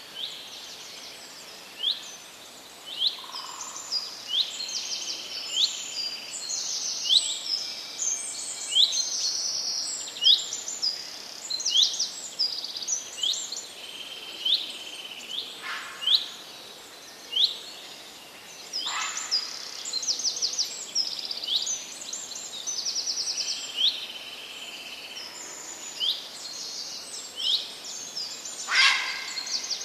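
Songbirds chirping and singing in a busy chorus: a steady stream of short, high chirps and quick trills from several birds, with a few louder calls now and then.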